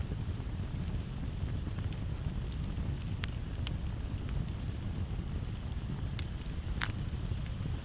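Campfire crackling, with scattered sharp pops over a low steady rumble of flames and breeze; the loudest pop comes near the end. Crickets chirr steadily and high in the background.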